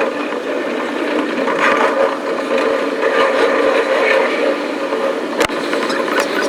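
A train running along the line, heard as a dense, steady rumble and rattle, with one sharp click about five and a half seconds in.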